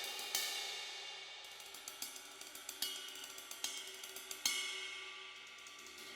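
Aisen Vintage Series B20 bronze cymbals being played: one stroke near the start left to ring, then a run of light, quick ticking strokes broken by three louder accents. The last accent, about two-thirds of the way through, is the loudest and rings out slowly.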